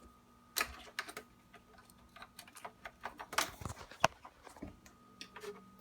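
Scattered, irregular light clicks and knocks of hands handling the AeroGarden LED hood and its power cord while getting it plugged in.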